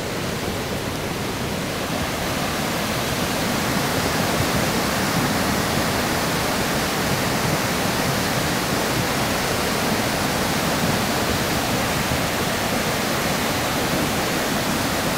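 River water rushing steadily, growing a little louder about two seconds in.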